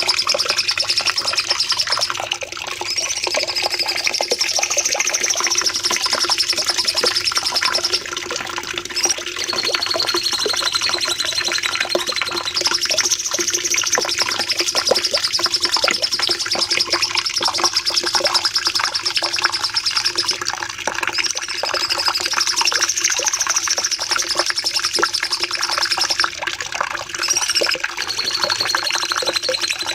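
Cucak cungkok singing long, very rapid high trills, the 'nembak panjang' song, each running several seconds with short breaks between them. A faint steady low hum sits underneath.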